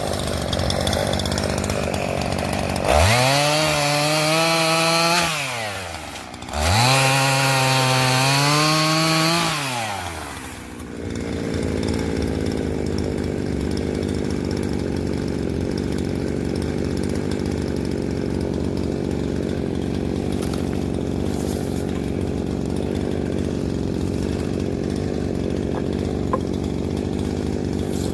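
Chainsaw engine revving up twice near the start, each for a few seconds with the pitch climbing, holding high and dropping back, then running steadily at idle.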